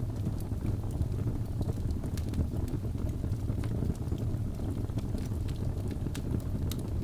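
Wood fire burning in a fireplace: a steady low rumble of the flames with frequent sharp crackles and pops from the logs scattered throughout.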